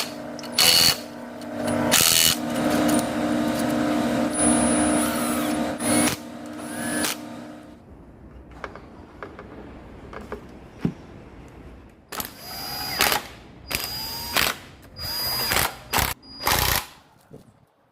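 Power tool running steadily for about eight seconds, then several short bursts a second or less each, in an engine repair workshop.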